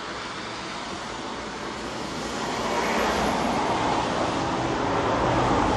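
Road traffic noise, tyres on a wet road, growing louder about halfway through as a vehicle approaches.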